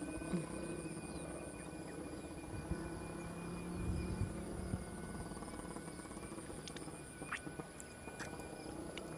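Hummer bow of a large Balinese kite droning in the wind: several steady humming tones that swell and fade, with a faint high pulsing chirr.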